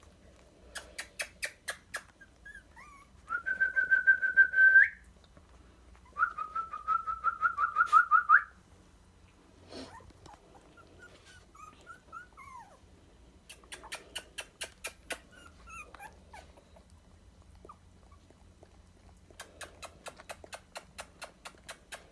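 A dog whining twice, high-pitched and in fast pulses, each whine lasting a couple of seconds, with fainter whimpers after. Between them come several short bursts of rapid clicking.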